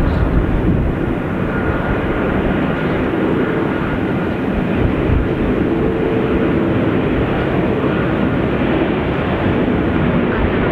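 Airliner's jet engines running at takeoff power: a loud, steady rumble with a faint whine over it.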